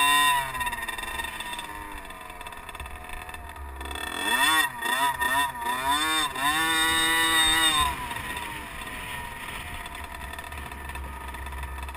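Small 50cc liquid-cooled two-stroke motocross bike engine. It drops in pitch and fades just after the start. About four seconds in, a run of quick rev-ups and drops lasts several seconds before it settles to a quieter steady drone.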